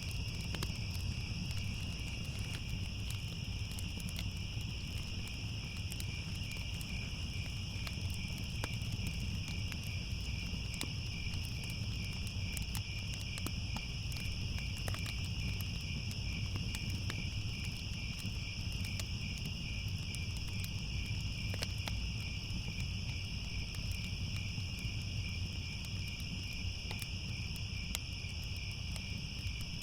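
Crickets chirping in a steady, continuous chorus, with scattered faint crackles of a fire and a low rumble beneath.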